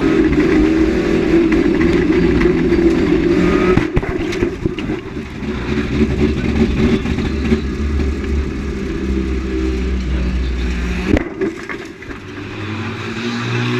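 Banger racing car engines running and revving hard, a dense mechanical drone with a deep rumble. The sound changes abruptly about four seconds in and again near eleven seconds, then settles to a lower engine note near the end.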